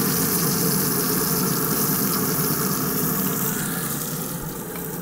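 Frog legs sizzling in hot butter and oil in a cast iron skillet, a steady frying hiss over a low steady hum. The sizzle grows fainter near the end.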